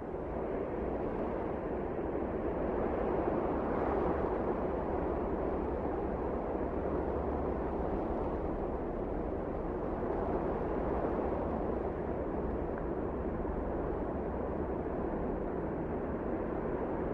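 Wind blowing steadily in a low, rushing noise, swelling over the first few seconds and then holding.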